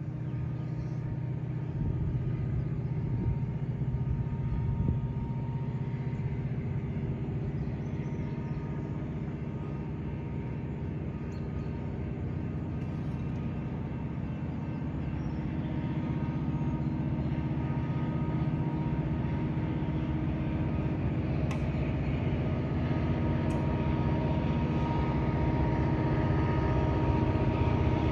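Approaching CSX welded rail train's diesel locomotives, a steady low rumble slowly growing louder as the train nears, with a grade-crossing warning bell ringing as the crossing activates.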